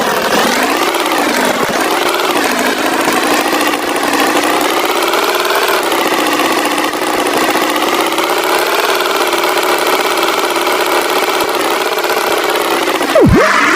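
Tractor engine running, its pitch drifting slowly up and down. Near the end comes a quick swoop in pitch, down and back up.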